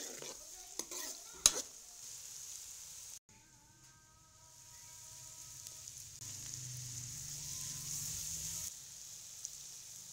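Sliced bitter gourd (karela) frying in a metal pan with a steady sizzle. A spoon stirs and knocks against the pan a few times in the first couple of seconds.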